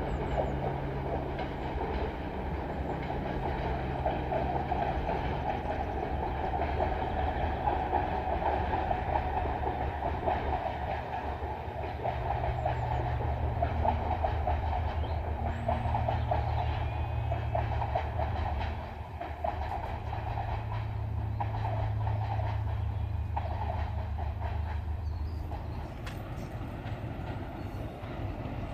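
Class 20 diesel locomotive working a train: a steady engine drone with the wheels clicking over the rail joints.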